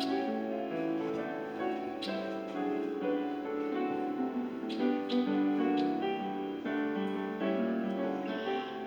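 Piano playing a slow melody over sustained chords.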